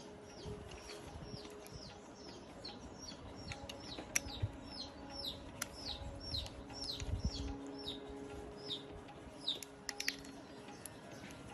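A bird calling in a rapid series of short falling chirps, about two a second, stopping near the end, with a few sharp clicks over a low steady hum.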